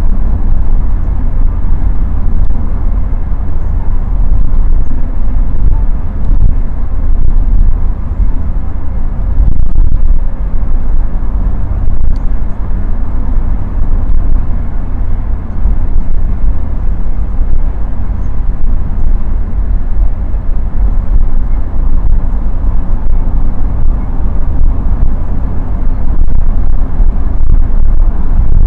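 Cabin noise of a BMW 316i E30 wagon on the move: its four-cylinder engine and the road give a steady low rumble.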